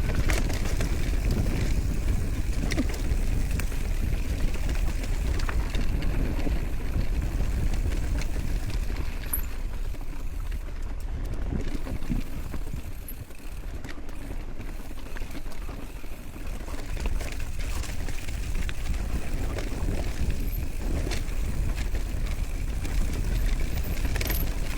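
Wind rushing over the microphone, with tyre and road noise, from a bicycle descending a mountain road at speed. It eases off a little about halfway through.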